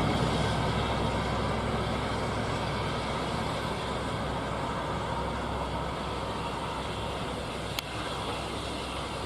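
A passing train's rumble, fading gradually, with one sharp click about eight seconds in.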